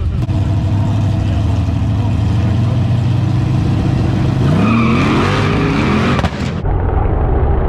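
Car engines running steadily, then accelerating hard: the engine notes climb in pitch, drop at the gear shifts and climb again, with more than one engine heard at once, typical of a street drag race launch. The sound changes abruptly about six and a half seconds in.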